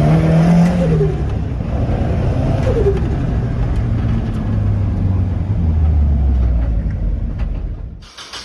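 Nissan 240SX's turbocharged KA24DE 2.4-litre four-cylinder engine running, its revs settling lower over several seconds. It cuts off abruptly near the end into a rapid ticking.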